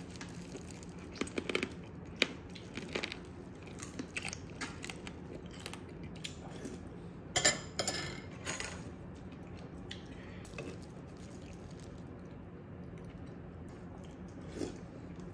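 Close-up eating sounds: chewing and biting on pieces of spicy seasoned raw crab (yangnyeom gejang), with scattered crunches and clicks from the shell. The loudest cluster comes about seven and a half to nine seconds in.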